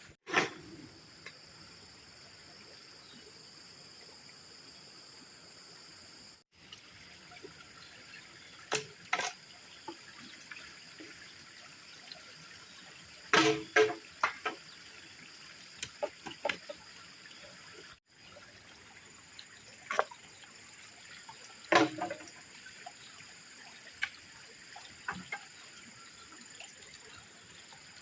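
Water trickling steadily under a thin, steady high-pitched hum, with a few sharp knocks and clatters, the loudest about halfway through and again near the end.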